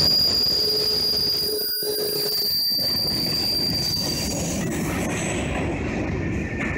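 Train passing close by: a steady rumble of the rolling cars, with a high, steady wheel squeal that fades out about four seconds in.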